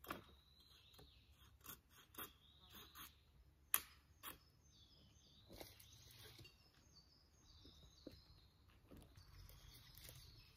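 Faint birds chirping, with short repeated calls in the middle and again near the end, over scattered sharp clicks and snaps, the loudest a little over a third of the way in.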